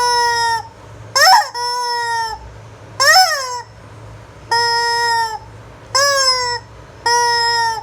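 Rubber squawking-chicken toy being squeezed over and over, giving about six loud, shrill, steady-pitched honks at a regular pace. Two of the honks open with a quick up-and-down squeal.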